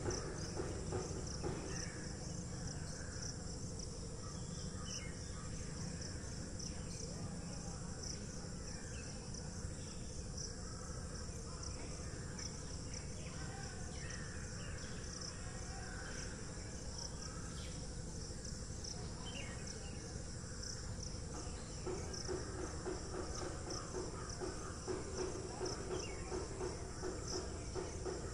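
Steady high insect chirring, as from crickets, with a lower pulsing buzz that grows stronger near the end.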